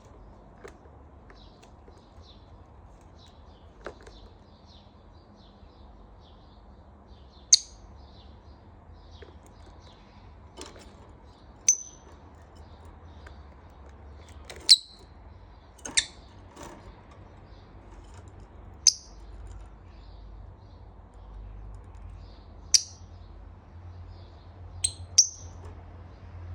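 Pet lovebirds chirping: a run of soft, quick chirps, broken every few seconds by a sharp, loud shriek, about eight in all, over a faint low hum.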